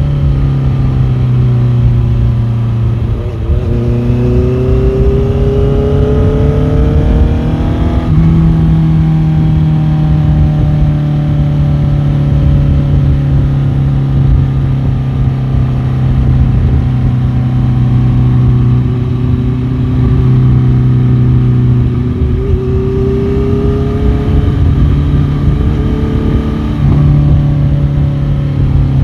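Motorcycle engine running under way. Its pitch rises steadily twice, a few seconds in and again past twenty seconds, and each rise ends in a sudden step in pitch.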